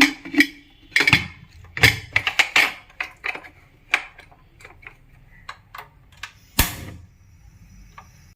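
Kitchen utensils knocking and clinking against a cooking pot in a quick, irregular run of clicks and taps, with one louder, longer rush of noise about six and a half seconds in.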